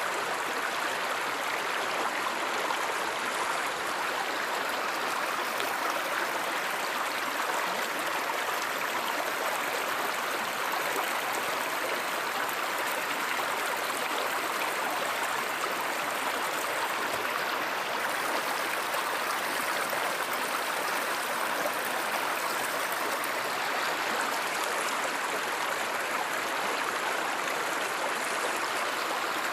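Steady rushing and gurgling of flowing stream water, unbroken and even throughout.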